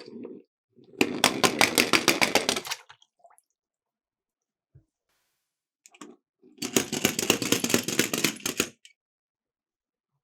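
Small die-cast toy cars rolling down a sloped track: two runs of rapid clattering clicks, each about two seconds long, the second starting about four seconds after the first ends.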